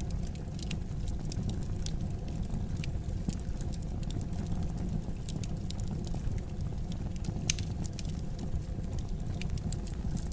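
Fire burning in a fireplace: a steady low rumble of flames with frequent irregular crackles and pops, one sharper pop about seven and a half seconds in.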